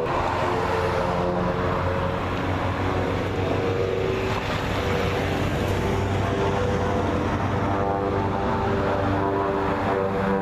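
Propeller airplane engine running steadily.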